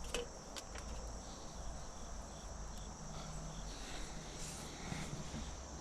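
Insects chirring steadily at a high pitch, over a low hum, with a few faint clicks.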